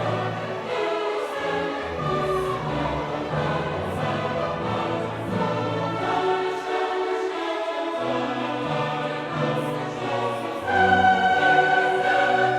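A choir singing with an orchestra in classical choral music, with held chords that shift every second or so and grow louder near the end.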